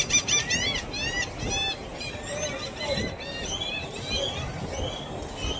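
Small birds chirping: a string of short, high chirps, thick in the first couple of seconds and sparser after.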